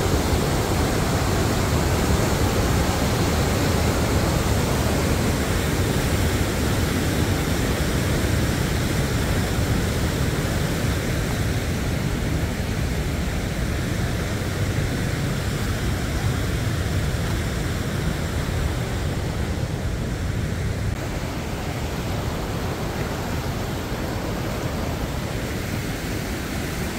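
Steady rushing roar of the lower cascade of a 50-foot waterfall, heaviest in the low end, easing slightly in the last few seconds.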